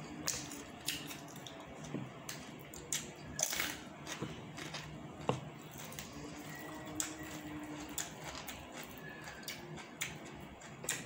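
Someone eating: quiet chewing and wet mouth sounds, with scattered soft clicks and small crunches.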